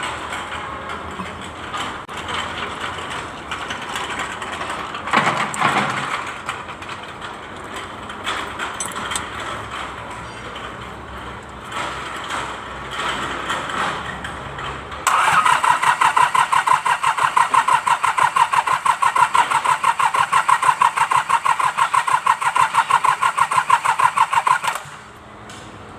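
Mitsubishi K3E three-cylinder diesel being cranked by its starter motor: a loud, rhythmic pulsing of about four beats a second for roughly ten seconds, which stops suddenly without the engine catching. Before that, quieter irregular mechanical noise.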